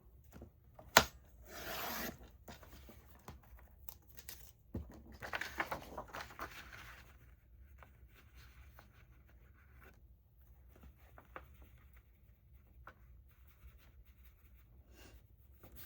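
Paper trimmer cutting paper: a sharp click about a second in, then two rasping slicing strokes as the blade runs along the sheet, followed by faint handling clicks and paper rustles.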